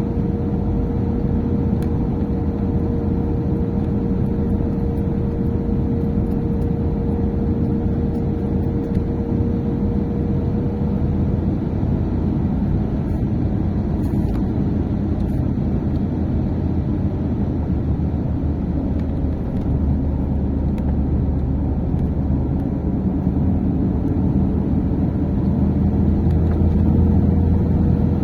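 Steady engine and road noise of a moving vehicle, with a faint steady whine that fades out about halfway through and comes back near the end. The low rumble grows louder over the last several seconds.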